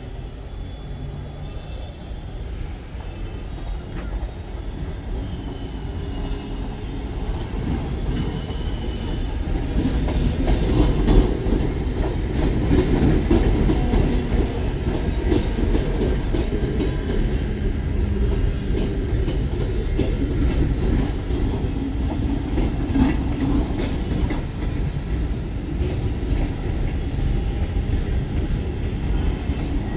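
A train running on the tracks through a station, growing louder over the first ten seconds as it comes in, then staying loud and steady with a heavy rumble.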